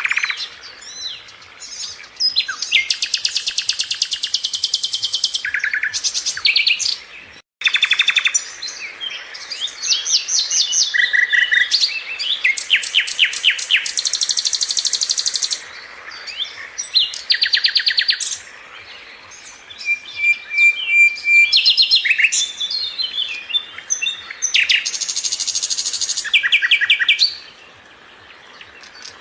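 Sikatan londo songbird singing: phrases of fast, high, rapidly repeated trilling notes, one after another with short gaps, broken by a brief cut-out about a quarter of the way through.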